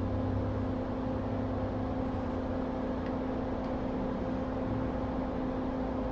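Small electric blower on an electronics rework bench running steadily: an even whoosh with a constant hum.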